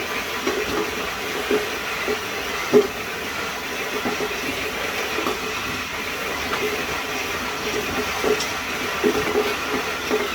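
Water spraying from a standard high-pressure shower head with its flow restrictor removed: a steady hiss with irregular light knocks.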